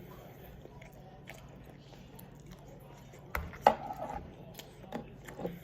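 Eating close to the microphone: mostly quiet at first, then a sharp cluster of clicks and mouth sounds about three and a half seconds in, and a few softer ones near the end.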